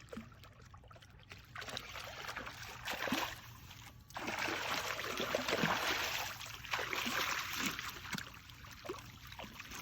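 A small hooked shark thrashing and splashing at the water's surface as it fights the line, in irregular bursts of a few seconds each.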